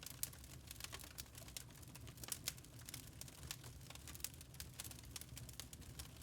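Wood fire burning in a fireplace, crackling with frequent irregular sharp pops and snaps over a low steady rumble.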